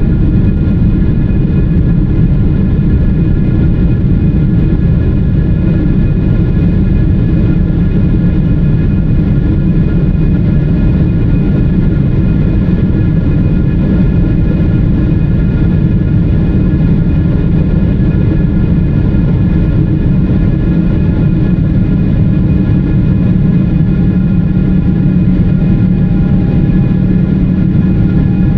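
Boeing 777-300ER cabin noise in the climb after takeoff: a loud, steady rush of GE90-115B jet engines and airflow, with a few steady whining tones over it.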